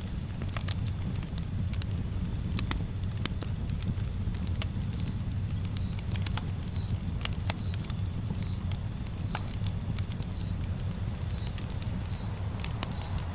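Campfire crackling: irregular sharp pops and snaps over a steady low rumble. From about five seconds in, a faint short high chirp repeats about once a second.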